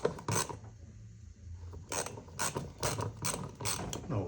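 Socket ratchet wrench clicking in a run of short strokes as a bolt is worked on the engine, with a couple of clicks near the start and a quicker series in the second half.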